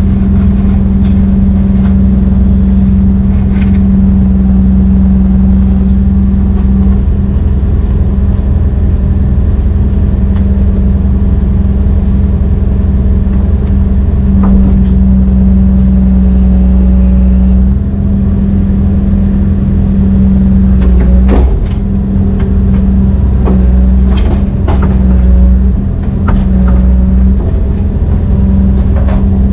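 Heavy diesel engine running steadily under load, close and loud, with its pitch holding nearly constant. A few sharp metallic clanks and knocks come in the second half as the load shifts.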